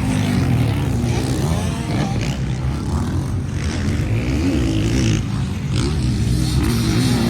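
Motocross bikes racing: several engines revving up and down, their pitch rising and falling again and again as the riders shift and throttle.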